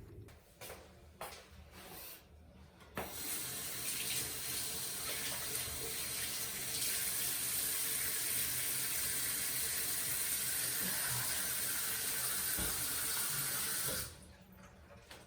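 Water running from a tap into a sink. It is turned on about three seconds in after a few light clicks, runs harder from about halfway, and is shut off sharply near the end.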